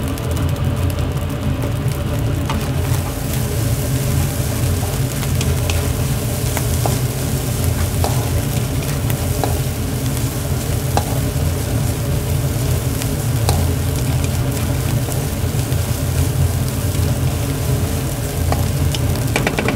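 Mie goreng stir-frying in a wok: a steady sizzle with a few light clicks scattered through, over a constant low rumble.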